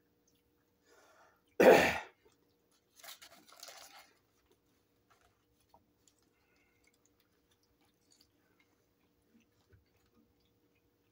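Close-up eating sounds: people chewing hamburger, with one short loud noise about two seconds in and a few fainter noises just after it.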